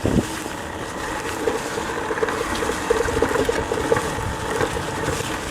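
Electric dirt bike's motor and chain drive whining in short on-off pulses as it is throttled through brush, with a thump right at the start.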